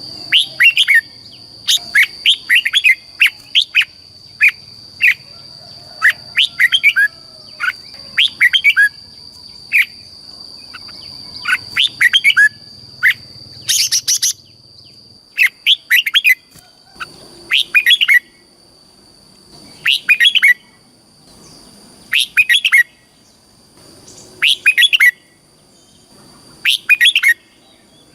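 Red-whiskered bulbul singing: short, bright warbled phrases repeated every second or two, coming more spaced out in the second half, with a steady high-pitched whine behind them.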